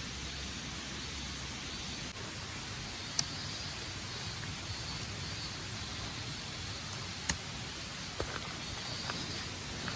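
Steady outdoor hiss with a few sharp ticks, the loudest about seven seconds in.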